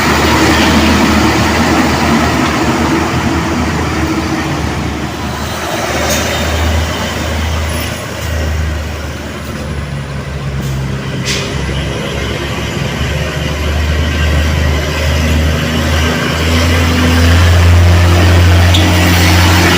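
Heavily loaded Hino truck's diesel engine labouring up a grade, with a steady deep engine note. It eases a little about halfway through and grows louder near the end.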